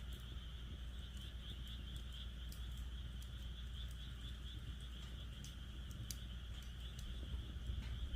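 Wood fire in a fire pit crackling, with a handful of sharp pops, over a steady chorus of frogs calling.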